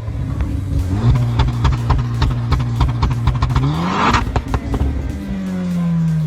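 Honda Civic Type R FN2's 2.0-litre four-cylinder engine and exhaust running, the revs climbing about four seconds in and then falling away slowly.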